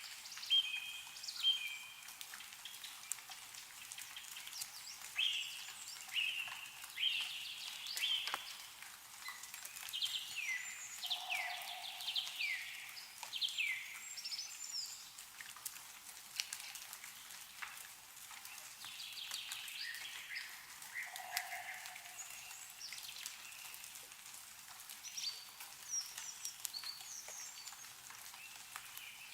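Songbirds calling and chirping in short, sliding and falling notes all through, over scattered drips of meltwater falling from snow-covered trees.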